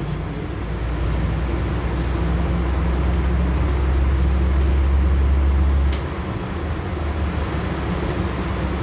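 Inside a LiAZ-6213.65 articulated city bus on the move: a steady low engine and drivetrain drone over road noise. About six seconds in the deep drone drops away, with a single short click.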